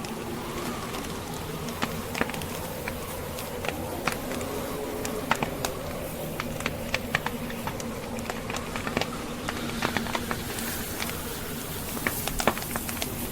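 Wood logs burning in a fireplace, crackling with many sharp, irregular snaps and pops, over the steady rush and low hum of a blizzard wind.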